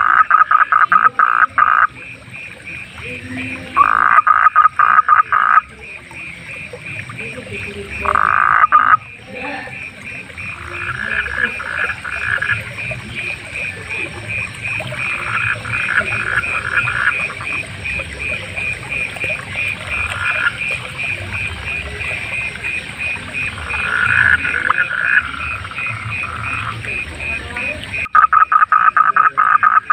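Frogs calling at night. The loudest gives rattling, fast-pulsed calls of about a second and a half each, several times, with quieter calls from others in between, over a steady, rapidly pulsing chorus.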